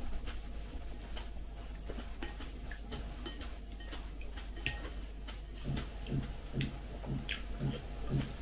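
Close-up eating sounds: porridge being chewed in a steady rhythm of about two to three chews a second in the second half, with small mouth clicks and a spoon clinking lightly on a ceramic bowl.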